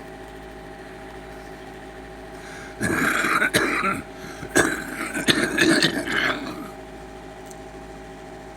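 A steady low machine hum, with a loud, noisy stretch of clattering and knocking from about three seconds in that lasts roughly three and a half seconds.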